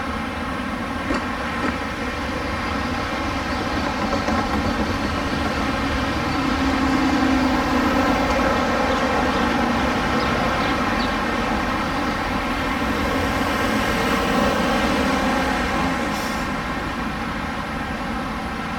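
Audi RS Q8's twin-turbo V8 idling steadily through its sport exhaust.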